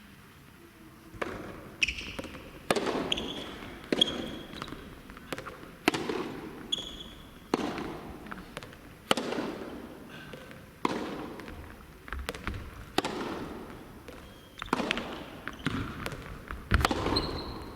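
Soft tennis rally: the rubber ball struck by rackets and bouncing on the court, sharp echoing hits about every one to two seconds, with short high squeaks of shoes on the court between them.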